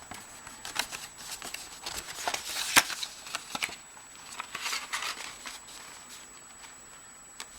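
Paper rustling and crinkling as the pages, tags and envelopes of a handmade paper journal are handled and turned, with scattered light clicks and taps; it quietens in the last couple of seconds.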